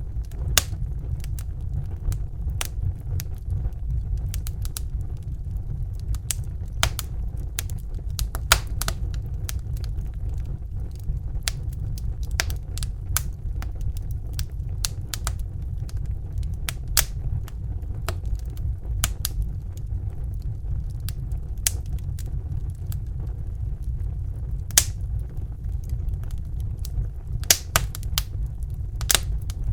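Crackling fire: irregular sharp pops and crackles, several a second with a few louder snaps, over a steady low rumble.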